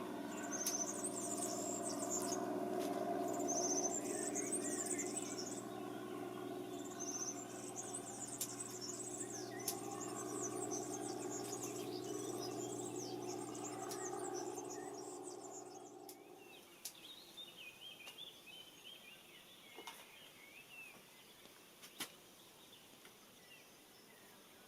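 Small birds chirping and twittering in repeated bursts, over a steady low mechanical hum that cuts off about two-thirds of the way through.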